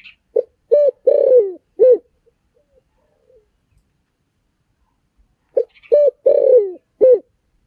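Spotted dove cooing: two phrases of four notes each, the third note long and falling in pitch. One phrase comes about half a second in and the other about five seconds in.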